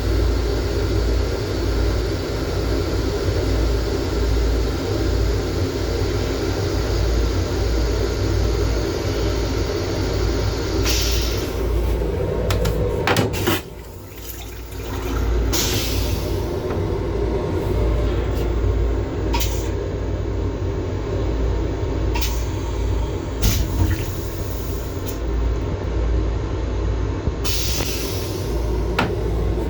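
Inside the restroom of a Long Island Rail Road M7 railcar: the train's steady low rumble, with several short hissing bursts from the toilet flushing. The sound dips briefly about halfway through.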